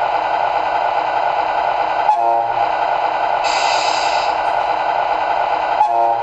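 Sound module of a remote-control model truck playing a steady simulated truck engine, with a short horn toot about two seconds in and another near the end, and a brief air hiss between them.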